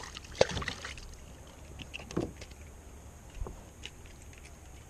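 A few light knocks, scrapes and clicks of handling in a kayak, with the sharpest click under a second in and a dull thump about three and a half seconds in, while a small trout is unhooked to be released.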